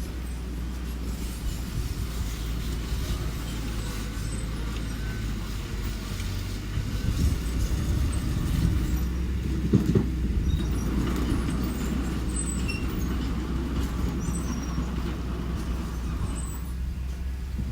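Engine of a small earthmoving machine running steadily, louder for a few seconds in the middle, with a single knock about ten seconds in.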